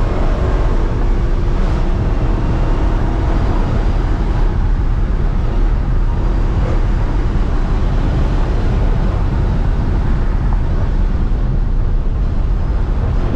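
Dodge Charger SRT Hellcat's supercharged 6.2-litre V8 running steadily under way, with road noise, heard from inside the car. The sound is loud and even, heaviest in the bass, with no clear revving.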